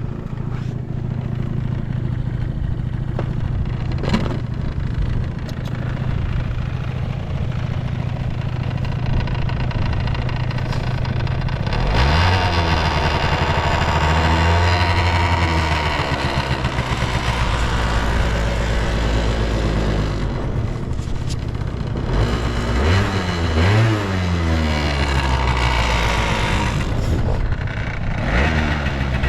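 Honda Live Dio AF35 scooter's 50cc two-stroke single-cylinder engine idling steadily, then revved up about twelve seconds in and held, dropped back, blipped a couple of times and revved again near the end. The engine runs cleanly, which the seller takes as a sign of good condition with no abnormal noises.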